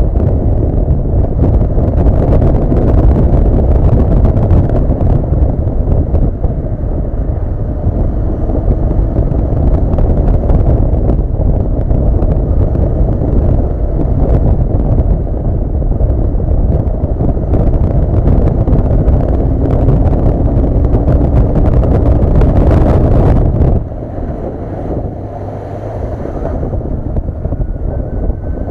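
Wind rushing over the microphone while riding a Honda CB400 Super Bol d'Or, with its inline-four engine running underneath. About three-quarters of the way through, the wind noise drops suddenly and the sound becomes quieter.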